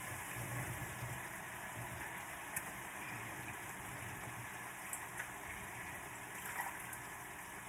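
Vegetables and curry cooking in a pan on the stove: a steady sizzling hiss with a low hum under it and a few faint clicks.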